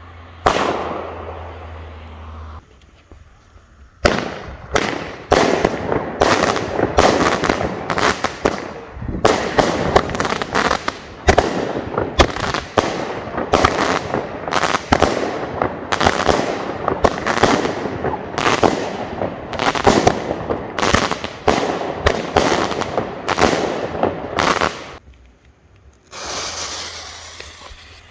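Aerial fireworks firing shot after shot, roughly two a second for about twenty seconds, with crackling between the bangs. There is a hiss about a second in and another, higher hiss near the end.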